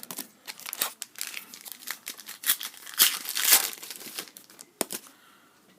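A plastic hockey card pack wrapper being handled and torn open, with a run of sharp crackles and a louder tearing rush about halfway through.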